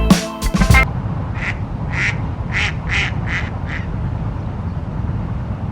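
Music stops abruptly about a second in, then a duck quacks six times in quick succession over a steady low outdoor rumble.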